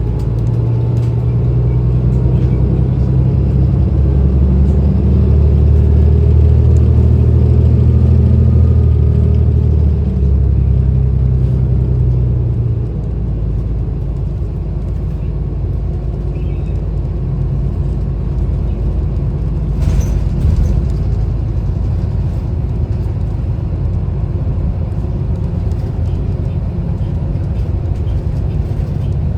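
City transit bus running, heard from inside: the engine's low drone is strong for the first dozen seconds or so, then drops off suddenly to a quieter steady rumble. A single short click comes about two-thirds of the way through.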